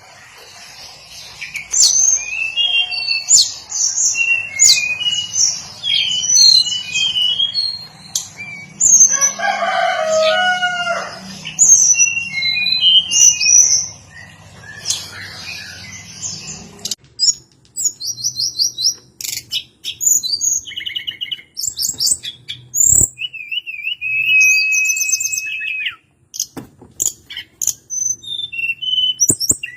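Hill blue flycatcher singing: a quick run of short, high chirps and whistled phrases, with a longer trill near the end. A lower, falling call comes in about nine seconds in. A steady background hum cuts off abruptly partway through.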